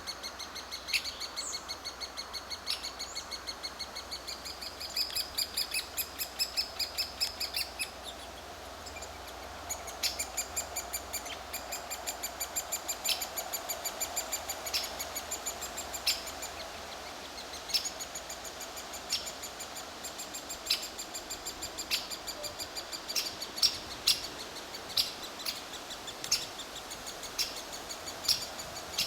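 Woodpecker calls at the nest: a fast, even string of high chirping notes, about five a second. Through the second half a louder, sharper note comes every second or so.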